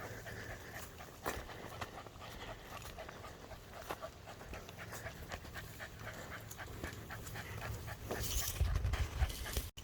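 A dog panting, with small rustles and clicks around it. A louder low rumble comes in near the end.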